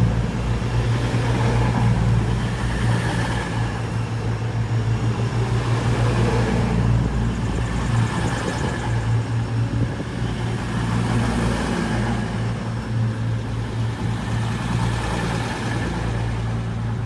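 Two coupled Class 220 Voyager diesel-electric units running in past the platform, their underfloor Cummins diesel engines giving a steady low drone over the rumble of the train.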